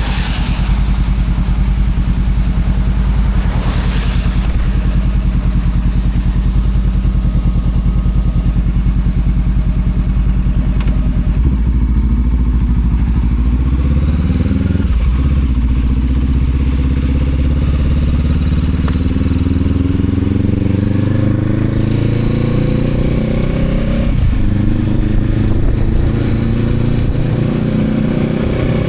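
Honda CB500X parallel-twin engine running steadily, then accelerating from about halfway. The pitch climbs and drops back sharply twice as it shifts up through the gears.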